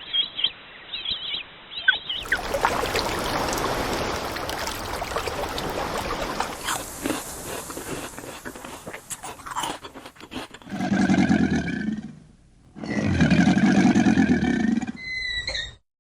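Animal calls: thin chirping at first, a stretch of noisy rustling and scraping, then two long, loud, deep roaring calls a second or so apart, followed by a few short squeaky calls; the sound cuts off just before the end.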